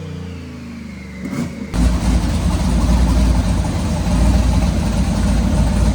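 A vehicle engine running with a loud, steady low rumble that cuts in abruptly a little under two seconds in, after a quieter stretch of falling tones.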